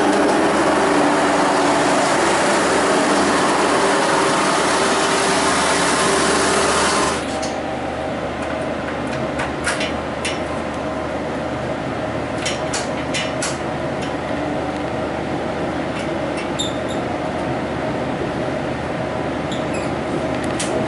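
Adelaide Metro diesel railcar moving past close by: loud running noise with several steady tones rising slightly in pitch. About seven seconds in it gives way abruptly to the quieter running noise heard inside a moving train, with scattered clicks.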